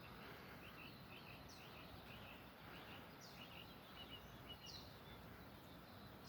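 Faint birds calling: many short chirps and a high falling note repeated about every second and a half, over a steady outdoor hiss.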